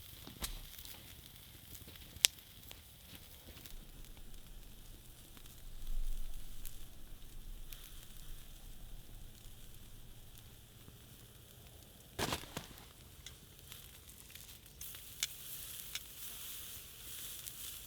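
Steak sizzling on a grill over a wood campfire, with the fire crackling. There is a sharp pop about two seconds in, a short low rumble about six seconds in, and a cluster of crackles around twelve seconds. The sizzle grows stronger near the end.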